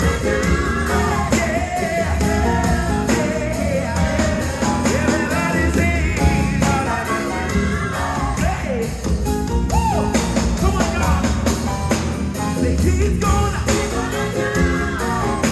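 Live gospel choir and band performing: singing voices over bass, drums and guitar, with sliding vocal runs.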